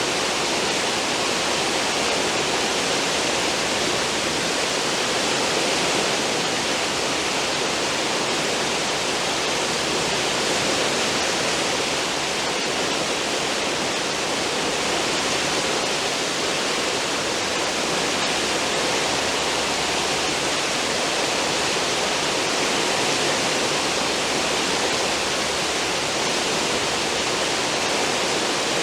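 Churning, foaming wake water behind a cruise ship's stern: a steady, loud rush of water that never lets up.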